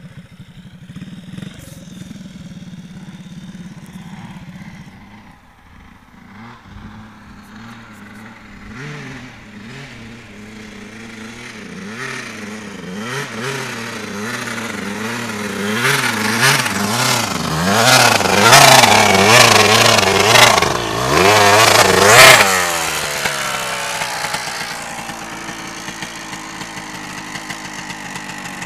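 125 cc motorcycle engine running steadily, then revved up and down repeatedly, climbing to loud high revs. After that the revs drop sharply and it settles back to a steady low run.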